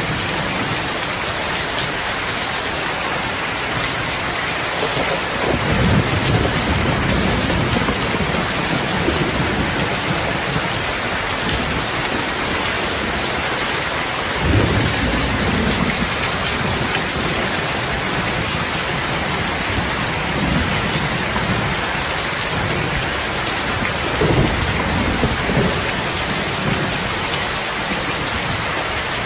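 Heavy rain pouring steadily, with low rumbles of thunder swelling up three times.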